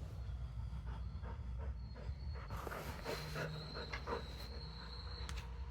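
Robot vacuum cleaner running, with a steady low hum and a thin high whine. Scattered small clicks and a brief hiss come about halfway through.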